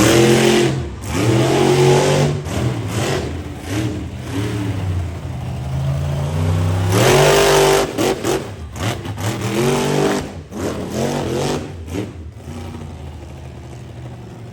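Monster truck engine revving in repeated blips, its pitch climbing and falling, with one big rev about seven seconds in, then settling quieter near the end.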